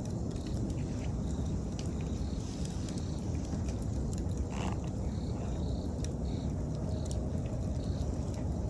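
Campfire burning with a steady low rumble and scattered sharp crackles and pops of burning wood, while autumn insects chirp in short high repeated notes.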